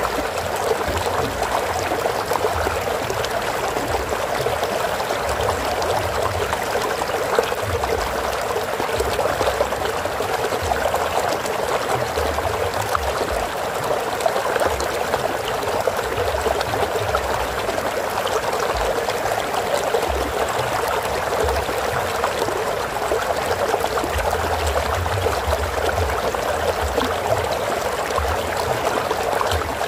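Stream water flowing and trickling steadily over rocks, with an occasional low rumble underneath.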